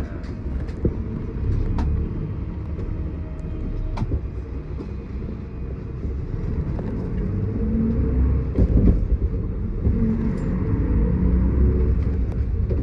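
Miyazaki Kotsu city bus running, heard from inside the cabin: a steady low engine and road rumble that grows louder in the second half, with a few sharp clicks and rattles.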